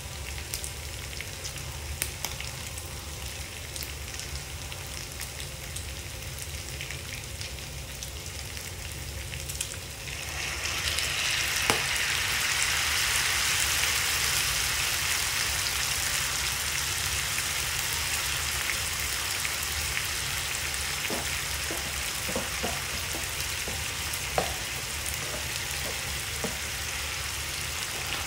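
Pork belly, onion and carrot frying in a nonstick pan with a steady sizzle. About ten seconds in, kimchi goes into the hot pan and the sizzle turns suddenly louder and brighter, then holds as a strong hiss, with a few light clicks in the second half.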